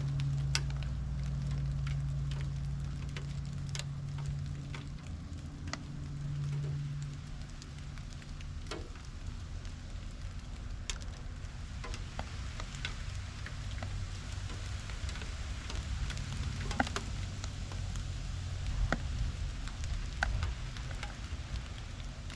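Light rain falling, with individual drops ticking sharply and irregularly on surfaces over a soft patter. A low hum runs underneath, fading out for a while in the middle.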